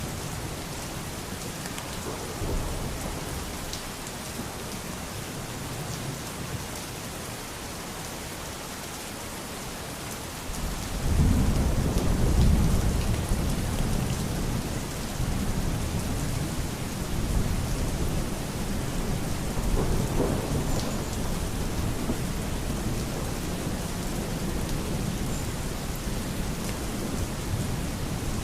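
Steady rain with rolling thunder. About eleven seconds in a deep rumble of thunder swells up and rolls on, with another roll near twenty seconds, over the constant hiss of the rain.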